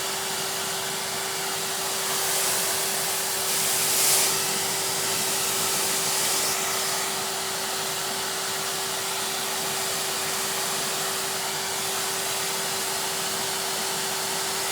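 Numatic Henry canister vacuum cleaner running steadily, its motor giving a constant whine over the rush of suction. The suction swells briefly twice, a couple of seconds in and again about four seconds in, as the nozzle moves.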